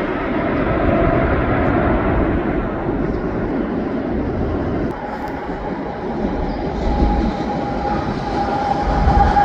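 Train rolling along the tracks: continuous wheel-on-rail noise, with a steady high tone joining about halfway through.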